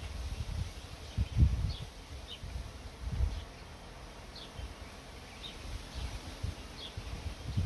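Small birds calling with short, high chirps, about one a second, over a low uneven rumble.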